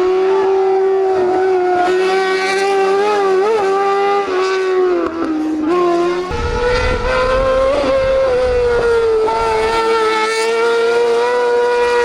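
Racing car engine held at high revs at speed, its pitch dipping briefly a couple of times, then jumping higher about six seconds in and holding steady.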